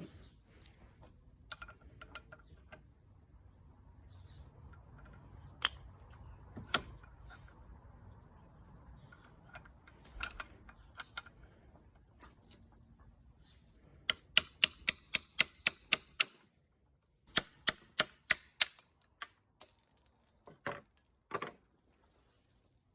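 Light hammer blows on metal, knocking the old mechanical seal out of a Suzuki GT750 water pump housing: scattered clicks and knocks at first, then two quick runs of sharp taps at about five a second, then a few single strikes near the end.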